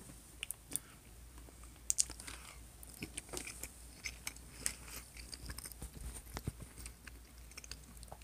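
A person chewing a mouthful of food and rice close to the microphone, with scattered small mouth clicks and soft crunches.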